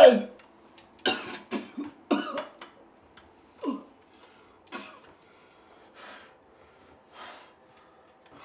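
A man coughing in a string of harsh, short bouts, with a groan, the coughs growing fainter and further apart until only occasional breaths are left.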